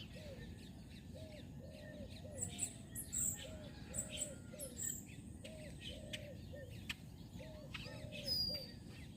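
Birds calling: a low call repeated in short groups of notes throughout, with sharper high chirps coming in from about two seconds in, over a steady low background rumble.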